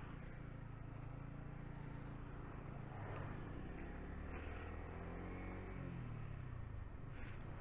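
Yamaha R15 V3's single-cylinder engine running while riding, its pitch shifting up and down and dropping away over a couple of seconds past the middle, with road noise underneath.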